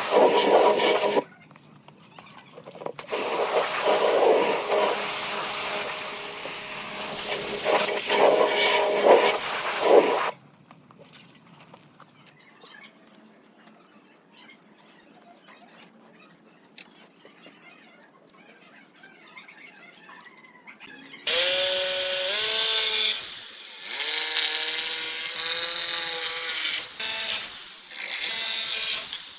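Power tools working wood in three loud bursts, separated by short pauses and a quieter stretch of about ten seconds. In the last burst the motor's pitch rises and falls as it takes load.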